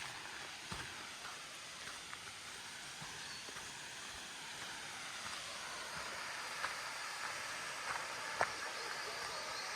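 Steady rushing of a waterfall, growing gradually louder, with a few scattered footsteps on the trail.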